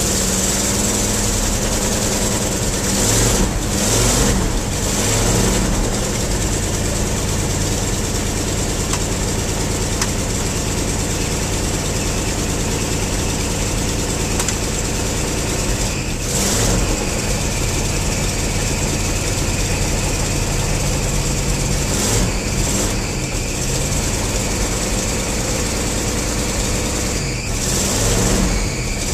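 Carbureted engine of a 1974 Ford F250 running shortly after a cold start, with a few brief revs along the way.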